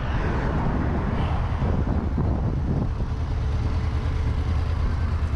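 Motorcycle engine running at low revs: a steady low rumble with a fast, even pulse.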